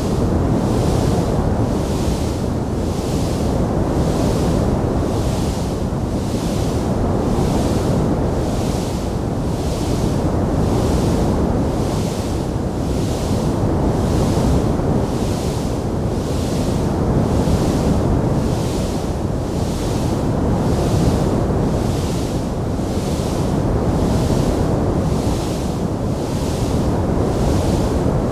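Wood fire burning in a fireplace: a steady, loud, low rumbling roar without distinct crackles, with a higher hiss that swells and fades in a regular pulse about once a second.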